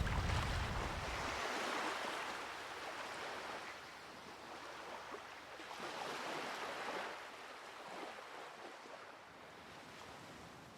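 Surf washing on a beach: a steady hiss of waves that eases off after the first couple of seconds and swells again about six seconds in.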